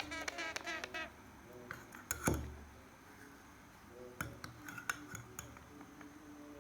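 Ten-day-old Amazon parrot chick giving a quick run of short, repeated chirping calls, then a sharp knock about two seconds in and a few light clicks with more short calls later.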